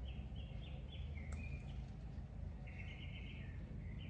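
Birds chirping in short, repeated warbling phrases over a steady low background rumble.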